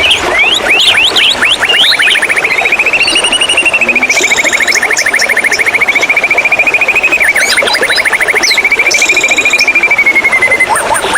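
White-rumped shama singing: a few quick whistled sweeps, then one long, very fast trill held near one pitch, wavering slightly, that stops just before the end. Short higher notes sound above the trill twice.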